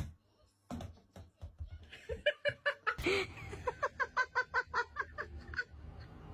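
A voice making a run of short, rhythmic pitched pulses, about four a second, starting about two seconds in.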